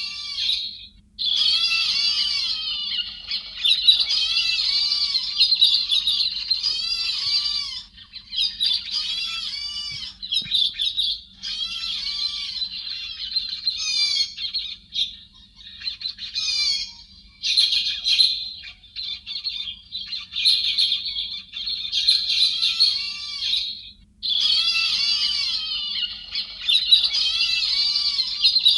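Many chim héc xoan birds calling together in a dense, overlapping chatter of quick, high, squeaky notes. The calls come in long bursts broken by short pauses: a recording edited for use as a trapping lure to draw a flock.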